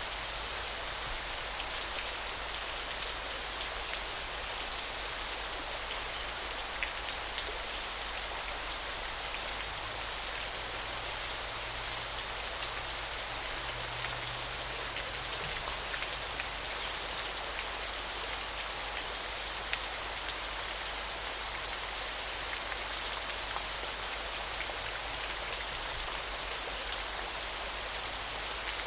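Steady hiss of a river's flowing water, dense and rain-like. For the first half, a thin, high trill repeats in bursts of a second or two, then stops about sixteen seconds in.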